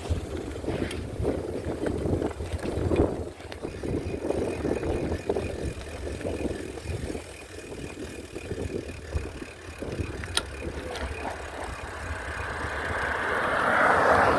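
Wind buffeting the microphone during a bicycle ride, with uneven rushing noise and a few clicks. A broader rushing sound swells over the last two seconds and is loudest at the very end.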